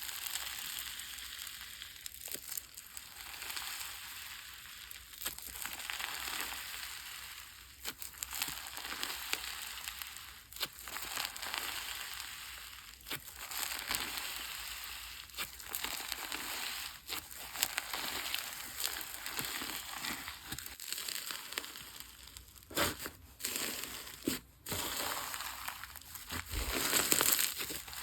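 Slime being squeezed and kneaded by hand, giving a dense run of small clicks and crackles with louder sharp pops here and there.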